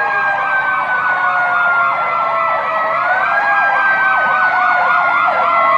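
Several emergency-vehicle sirens, a fire truck's among them, sounding together loudly. A fast yelping siren repeats about four times a second over steadier siren tones that glide slowly down in pitch.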